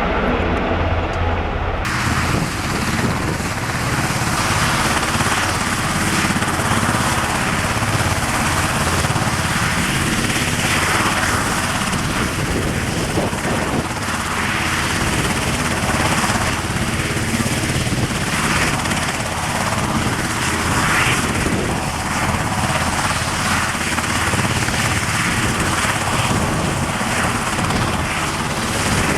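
Irish Coast Guard search-and-rescue helicopter, its rotor and turbine engines running with a steady, loud noise that holds at an even level.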